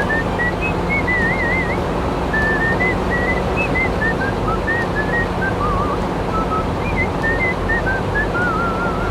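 A whistled tune: a single melody line that wanders up and down, with little trills, over a loud, steady droning noise.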